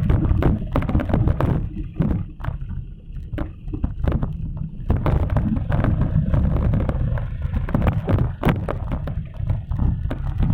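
Wind buffeting the microphone of a camera carried on a moving bicycle: a steady low rumble, with scattered clicks and rattles from the bike.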